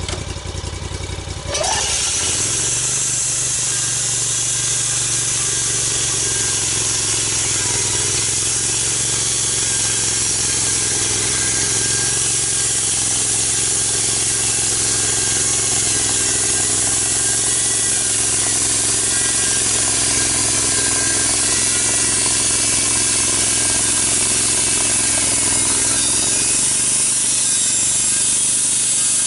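Gas engine of a log-milling saw going from idle to full throttle about a second and a half in, then running steadily under load as the saw cuts lengthwise through a big log.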